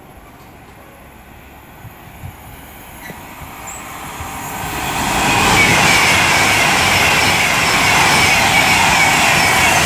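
Class 390 Pendolino electric train approaching and passing at speed. A rush of train noise builds from about four seconds in and holds loud and steady, with a high whine through it.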